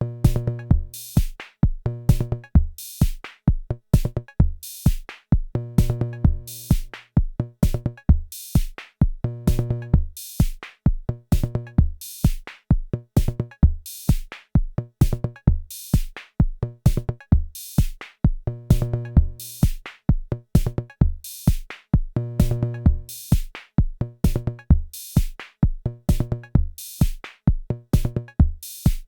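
Arturia DrumBrute Impact analog drum machine playing a looped beat. Kick drum hits and hi-hat and cymbal hits mix with pitched, ringing drum-synth hits in a pattern that keeps repeating.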